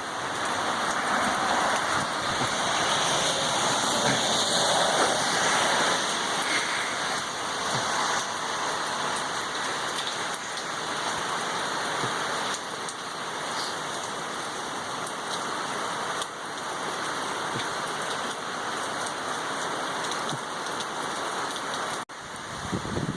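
Steady heavy rain from a hurricane, pouring down and hitting surfaces, a little heavier over the first several seconds.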